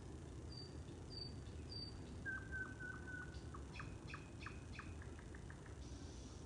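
A bird singing in a forest at night: three short high whistled notes about half a second apart, then a lower drawn-out phrase that breaks into a quick run of repeated clicking notes that stops about two-thirds of the way in. A faint low rumble of background noise runs beneath.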